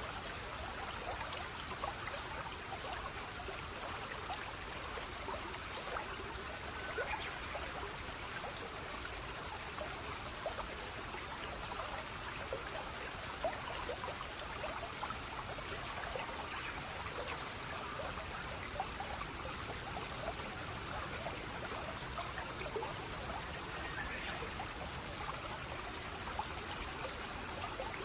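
Running water of a small stream or cascade, trickling and splashing steadily with a constant patter of small splashes.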